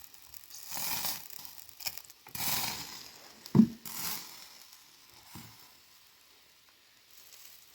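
Rustling, crunching handling noises in a few short bursts, with one sharp knock about three and a half seconds in.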